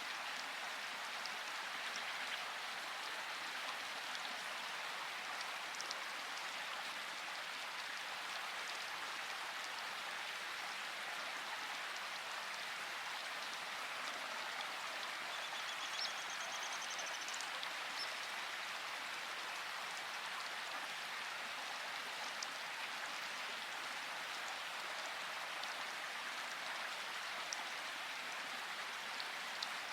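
Steady rain falling, an even hiss with scattered individual drops ticking. About halfway through there is a brief faint high chirp.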